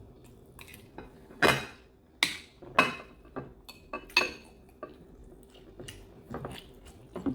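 A spoon clinking and scraping against a plate during eating, with a handful of sharp, irregular clinks and softer taps between them.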